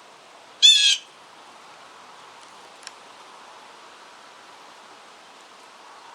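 Blue jay giving one harsh, buzzy jay call, about a third of a second long, over a steady hiss of wind in the leaves; a faint tick near the middle.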